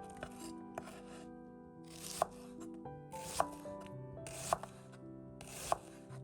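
A knife slicing through food on a cutting board, one stroke a little more than a second apart, each a short rasp ending in a tap on the board, over quiet background music.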